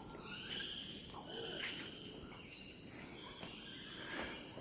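Steady high-pitched chorus of crickets and other insects, with a few faint short calls underneath.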